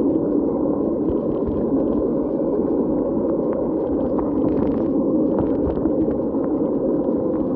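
Steady, muffled rushing noise of rain and wind against the camera during a bicycle ride, with scattered small ticks.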